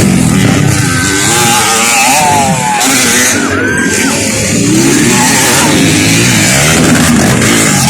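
Dirt bike engines revving, their pitch rising and falling repeatedly as the throttle is worked.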